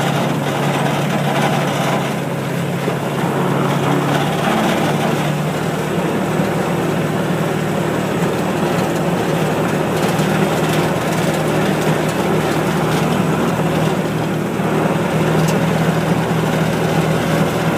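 Engine of a small ride-on farm vehicle running steadily under way, a constant hum.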